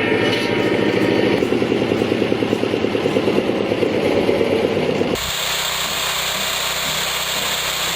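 An engine running with a fast, even pulsing beat. About five seconds in it cuts abruptly to a different, steadier machine noise with a hiss.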